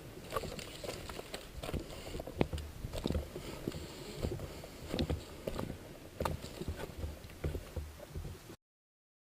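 Irregular light knocks and rustling of footsteps and gear moving. The sound cuts out abruptly near the end.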